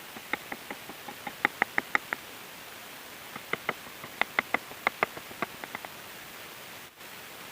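A carving chisel struck by a mallet in quick runs of sharp taps, about four a second, each with a short ring, cutting into wood; a pause of about a second separates two runs, against a steady hiss.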